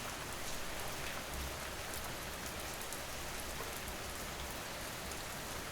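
Steady rain falling on surfaces, an even hiss with scattered small drop ticks.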